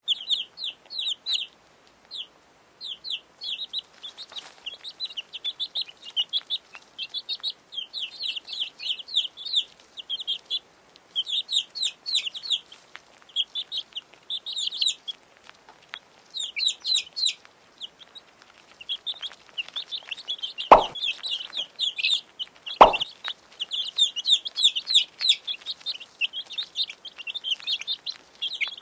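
A group of chicks peeping in short, rapid, high chirps, almost without pause. Two sharp knocks sound about two seconds apart, two-thirds of the way through.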